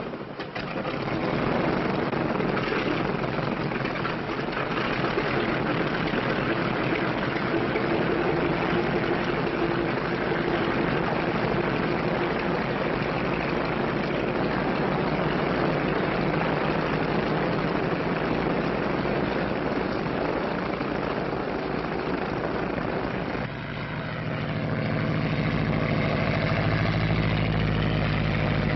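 Propeller airplane engine running at full power, a loud steady roar on an old film soundtrack. About 23 seconds in, it drops briefly and settles into a lower, even drone.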